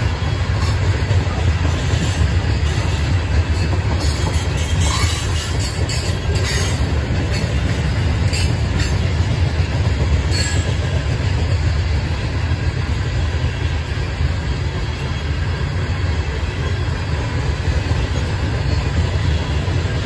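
Loaded coal hopper cars of a long freight train rolling past: a steady, heavy rumble of steel wheels on rail. A few brief, sharp high-pitched noises come from the wheels between about four and eleven seconds in.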